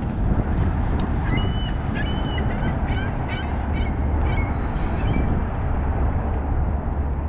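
A flock of Canada geese honking, a rapid cluster of short calls from about a second in until around five seconds, over a steady low rumble.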